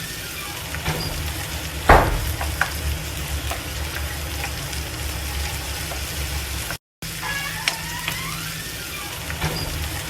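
Food sizzling in a frying pan, with one sharp clank about two seconds in.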